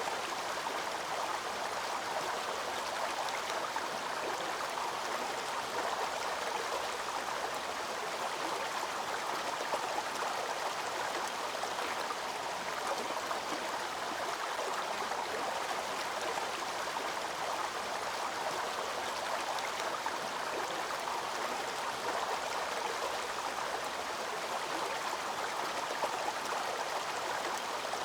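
Water of a waterfall cascade rushing and splashing, a steady, even noise that never pauses or changes.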